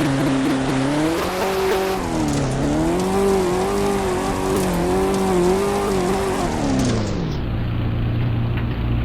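Car engine revving up about a second in, its pitch wavering up and down, then falling back to a steady low idle near the end.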